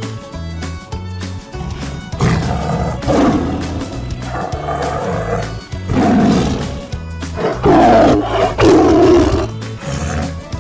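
Tiger roaring several times, in loud rough outbursts starting about two seconds in, over background music.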